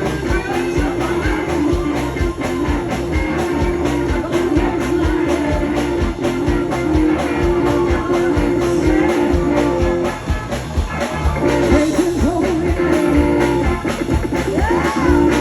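Live band playing a sacred steel gospel-blues jam: drums keep a steady beat under a held chord, with gliding steel-guitar slide lines and singing over it. The held chord drops out briefly about ten seconds in.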